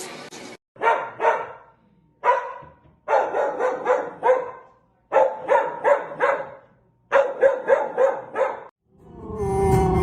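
A dog barking in quick runs of two to five sharp, fairly high-pitched barks with short pauses between runs, about sixteen barks in all. Near the end the barking stops and a different sound with steady tones comes in.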